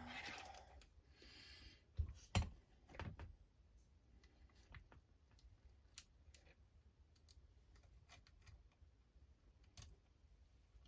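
Faint clicks and taps of small RC truck parts being handled and fitted together. There are a few sharper knocks about two to three seconds in, then only sparse light ticks.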